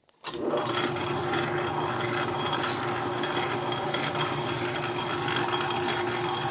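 Clausing 4800 metal lathe switched on about a third of a second in, then running steadily with its leadscrew driving the carriage, a constant machine hum with a faint whine and occasional light ticks. The leadscrew runs smoothly with its new anti-backlash washer fitted.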